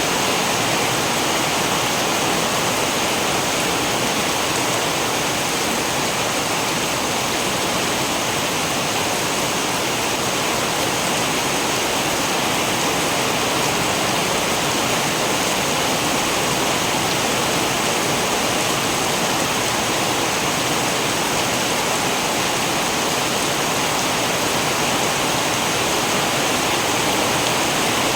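Steady rain, an even unbroken hiss with no thunder.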